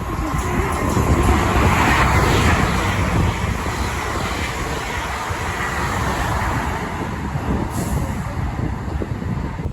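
A train running through the station: a steady rumble that swells a second or two in, with a faint steady whine over it.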